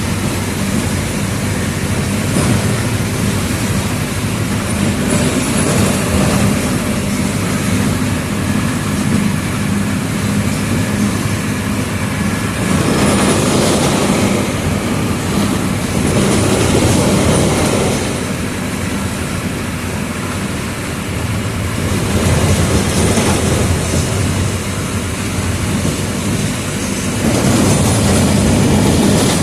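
Mercedes-Benz OF 1722M city bus engine running under way, with a steady low drone and a rattling body. It swells louder a few times as the bus pulls harder and then eases.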